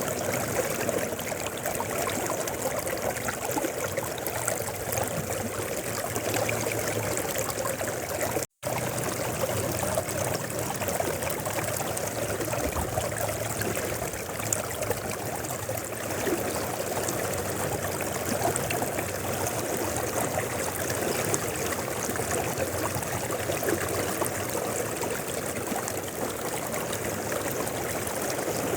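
Mountain river flowing steadily, a continuous rushing and trickling of water, which cuts out completely for an instant about eight seconds in.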